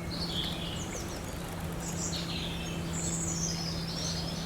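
Small birds giving short, high chirping and twittering calls several times, over a steady low hum and a background hiss.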